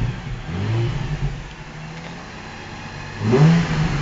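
Nissan 350Z's 3.5-litre V6 idling and being revved twice: a short blip about half a second in, then a sharper, louder rev near the end that falls back toward idle.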